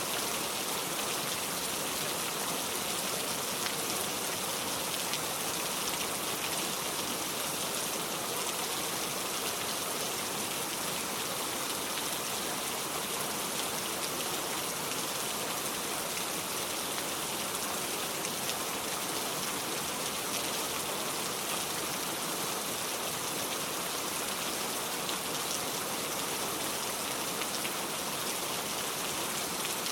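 Steady rain: an even hiss of many drops falling, with faint ticks scattered through, unchanging throughout.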